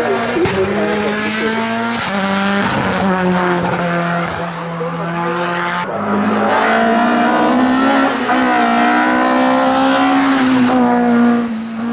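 Hillclimb race car engine at high revs under full throttle, its pitch climbing through the gears with upshifts about two and six seconds in.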